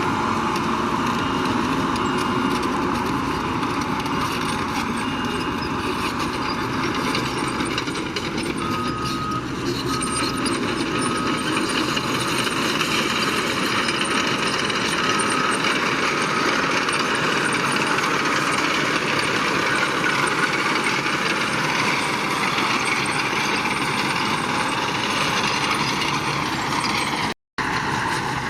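Diesel earthmoving machinery running steadily, with a reversing alarm beeping in short, evenly spaced pulses for several seconds in the middle. The sound cuts out for an instant near the end.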